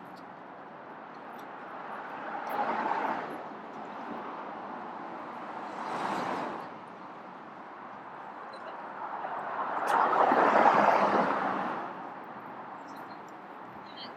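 City street traffic: three vehicles pass one after another, one about three seconds in, one around six seconds, and the loudest and longest pass around ten to eleven seconds in.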